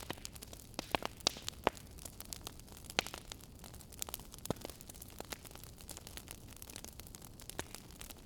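Wood fire crackling in a fireplace: irregular sharp pops and snaps over a steady low hiss, with a cluster of louder pops in the first few seconds.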